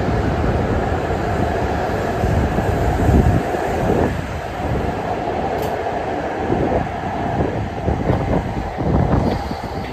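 H5 series Shinkansen pulling out of the station and running past the platform: a loud, uneven rumble of wheels and motors with air rushing along the car sides. The end car passes near the end.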